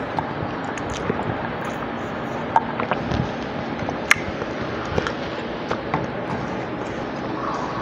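Close-miked chewing with the mouth closed: scattered small wet mouth clicks and smacks over a steady hiss.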